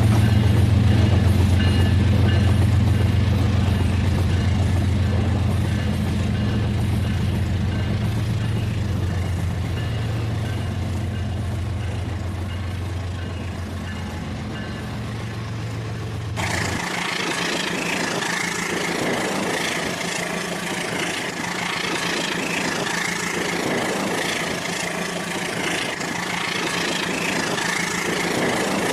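Battery-powered toy train running on plastic track, a steady low drone. About sixteen seconds in it changes abruptly to a brighter, noisier running sound without the low drone.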